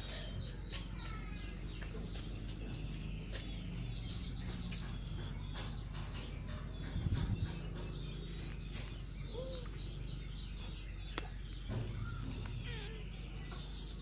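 Small birds chirping and trilling in short, scattered calls, some in quick runs of repeated notes, over a steady low hum. A brief low rumble about seven seconds in.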